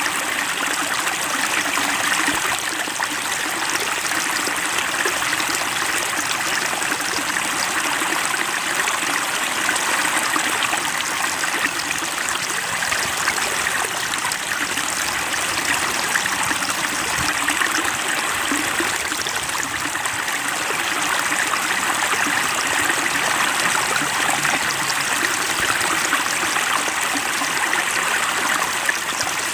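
Steady, unbroken rushing of running water, like a stream.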